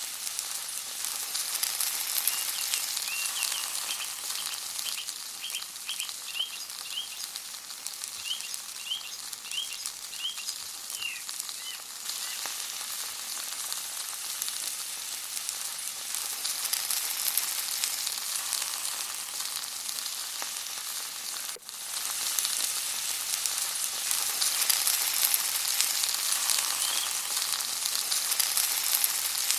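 Food frying in hot oil in a pan, a steady sizzle with fine crackling that swells and eases slightly. A series of short high chirps sounds over it in the first third.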